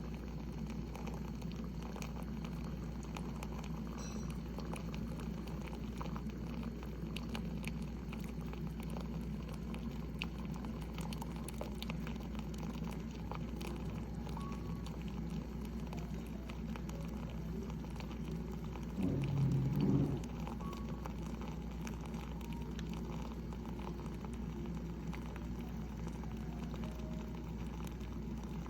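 Instant Solo single-serve pod coffee maker brewing: steady bubbling and spitting with scattered small ticks. About two-thirds of the way through, a louder low rumble lasts about a second.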